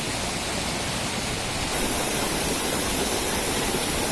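Steady rushing of falling water, an even hiss that does not let up.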